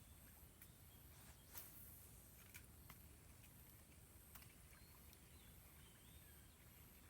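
Near silence: quiet outdoor ambience with a few faint, sharp clicks in the first half and faint high chirps in the middle.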